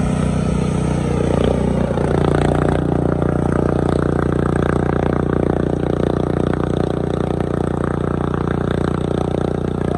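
Riding lawn mower's small engine running steadily, with some scraping and clatter mixed in.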